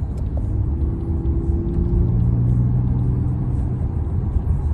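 Kia Stinger's twin-turbo V6 and road rumble heard from inside the cabin as the car drives in sport mode, the engine holding steady revs with a low, even drone that shifts to a lower pitch about two seconds in.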